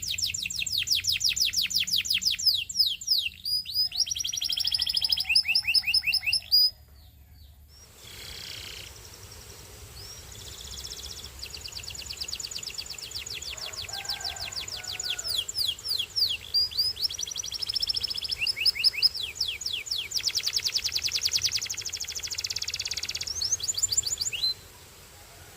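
Canary singing long, rapid trills of quickly repeated high notes with changing rolls and tours. The song breaks off about seven seconds in, starts again a few seconds later, and stops shortly before the end.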